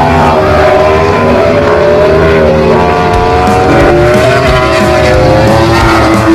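MotoGP racing motorcycle engines running at high revs, a continuous loud whine whose pitch drifts slowly up and down.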